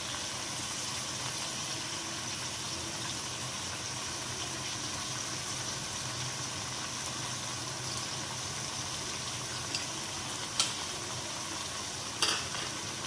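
Chicken karahi sizzling steadily in oil in a steel karahi, fried down to the stage where the oil has separated. A few light knocks of a utensil against the pan come near the end.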